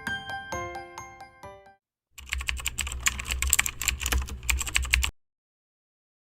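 A short glockenspiel-like jingle rings out and fades in the first second and a half; then, about two seconds in, rapid computer-keyboard typing clatters for about three seconds and cuts off suddenly.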